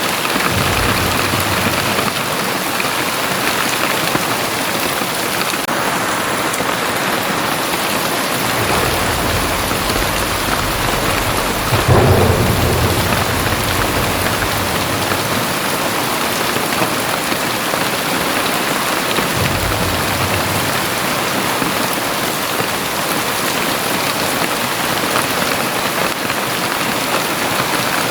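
Heavy rain pouring steadily, with low rumbles of thunder coming and going; the loudest is a sudden crack about halfway through that rolls on into rumbling.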